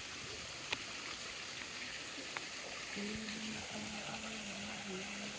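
Steady hiss like running water, with a couple of faint clicks and a low steady hum coming in about halfway through.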